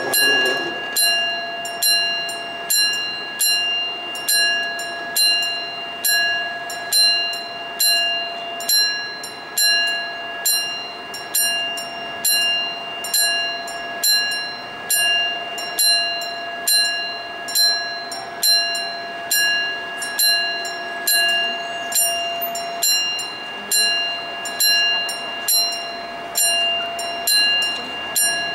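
Railway level-crossing warning bell striking steadily about once a second, each stroke ringing on with a clear metallic tone, signalling an approaching train.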